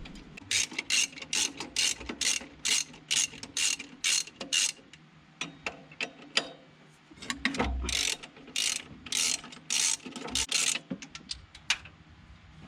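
Hand socket ratchet clicking in quick runs of strokes, about three or four a second, with a short pause midway: bolts being undone to remove the throttle body and EGR valve from the engine.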